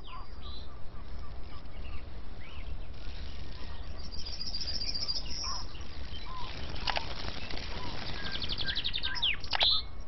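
Several wild birds chirping and calling, with a high trill around the middle and a quick run of repeated notes near the end, over a steady low rumbling background noise.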